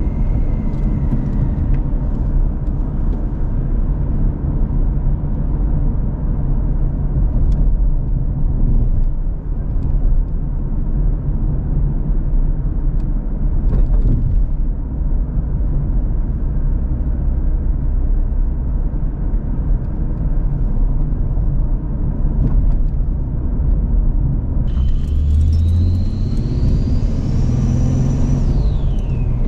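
S197 V6 Ford Mustang, fitted with turbo manifolds and exhaust but running unboosted on the stock tune, being driven: a steady engine and road rumble. Near the end a high whine rises for a few seconds and then falls away as the engine note climbs.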